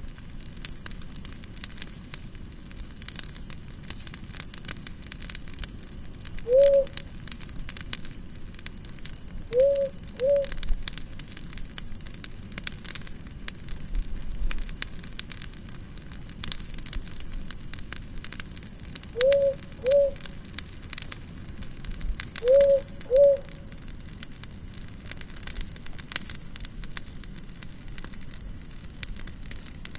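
Campfire crackling steadily with fine pops, joined by a few short bursts of rapid high chirping like a cricket. Several short low calls, mostly in pairs, sound at intervals over the fire.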